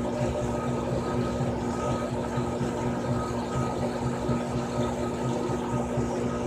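Frigidaire Gallery Series top-loading washing machine running, a steady motor hum with a low rumble that does not change.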